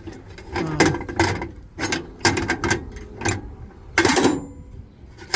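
Metal hand tools being handled and set down: a string of clicks, knocks and clatters, the loudest about four seconds in.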